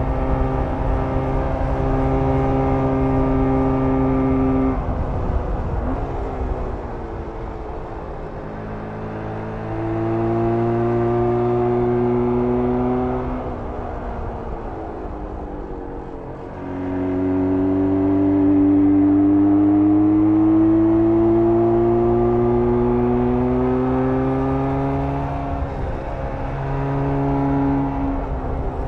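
1994 Jawa 350 type 638 two-stroke twin engine running under load on the move, its pitch climbing as it pulls and dropping back several times, a fall about five seconds in, another around thirteen to sixteen seconds, and again near the end, with the longest steady climb in the second half.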